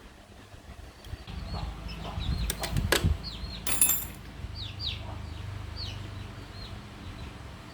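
A few sharp clicks and a short, high ringing clink about three to four seconds in, like metal parts or tools knocked together, against a low steady hum, with several quick high chirps scattered through.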